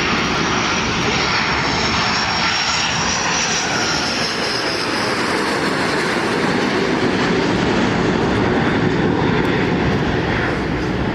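Military aircraft flying past: a loud, steady engine roar with a high whine that sinks slightly in pitch over the first few seconds.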